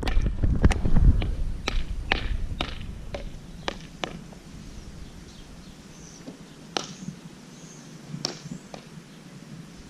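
Irregular clicks and knocks, loudest and most frequent in the first few seconds, over a low rumble that fades away about three seconds in. Faint high chirps come around six to eight seconds in.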